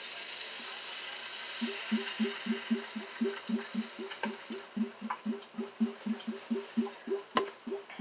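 Pancake batter sizzling on a hot griddle, the hiss fading over the first few seconds. From under two seconds in comes a rapid run of short, low, pitched blips, about four a second, whose source is not shown, with one sharp click near the end.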